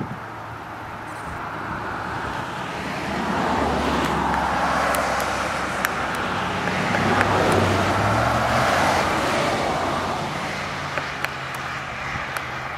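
A car passing by on the road: tyre and engine noise that builds up, peaks in the middle and fades away.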